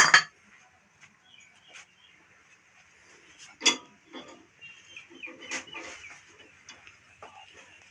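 Chickens clucking, with three sharp knocks: one at the start, one about three and a half seconds in and one about two seconds later. No engine is running.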